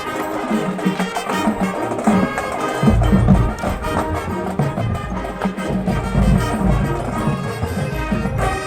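High school marching band playing: brass (trumpets, trombones) over a drumline. A heavy low bass comes in about three seconds in.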